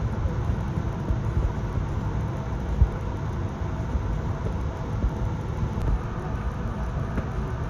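Steady low cabin rumble and hum of an Airbus A220-300 parked at the gate, its ventilation and air supply running, with a single faint knock about three seconds in.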